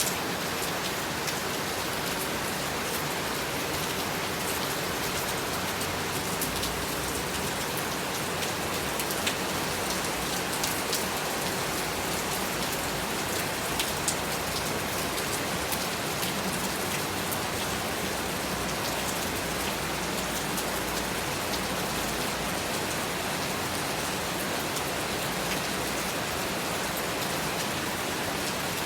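Heavy rain falling steadily, a dense even hiss with scattered sharper taps of drops striking nearby surfaces.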